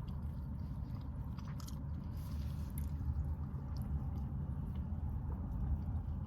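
Chewing and small mouth sounds from someone eating, with faint scattered clicks, over a steady low rumble in a car cabin.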